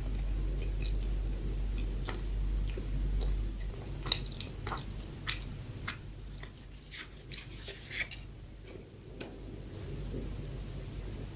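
Close-up chewing of soft filled bread, with scattered wet mouth clicks and smacks over a steady low hum.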